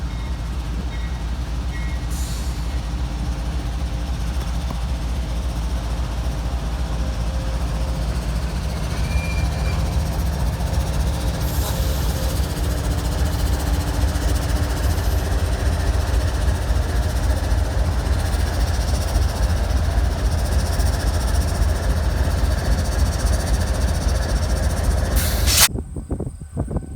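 CSX freight train passing close by: a steady low rumble of the train that grows slightly louder, then cuts off abruptly near the end.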